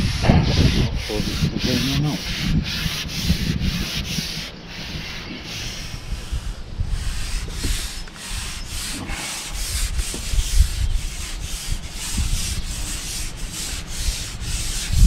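A repeated rubbing, scraping sound, about three short strokes a second, over the low rumble of wind on the microphone.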